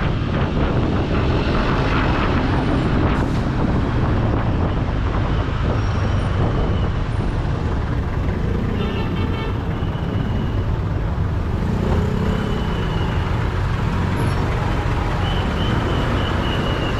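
Honda ADV scooter riding along a main road: its engine runs steadily under road and wind noise, with traffic around it.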